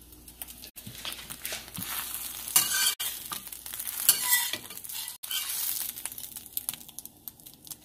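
A utensil stirring and scraping in a bowl of egg mixture, in irregular strokes with two louder scrapes around the middle. The sound breaks off abruptly three times at cuts.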